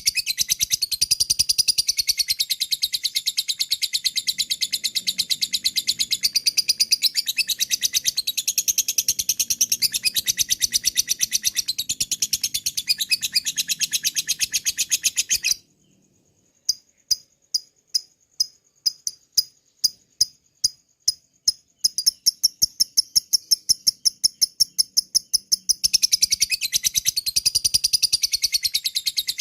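Lovebird ngekek: a long, rapid, high-pitched chattering trill. About halfway it breaks off for about a second, then goes on as sharp separate ticks, about three or four a second (ngetik), and builds back into the fast chatter near the end.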